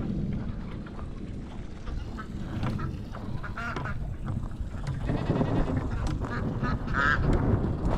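Ducks quacking a few times, loudest about seven seconds in, over a steady low rumble of wind on the microphone.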